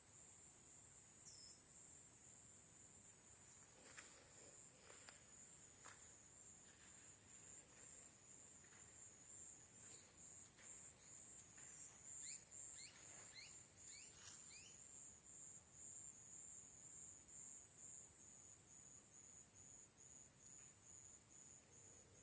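Faint, steady high-pitched insect drone, cricket-like, that becomes slightly pulsing in the second half. A few faint clicks and a quick run of short chirps come around the middle.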